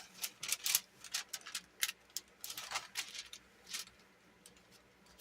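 Paper being handled: soft rustles and small irregular clicks and taps as a planner page and a sticker sheet are moved about, thinning out near the end.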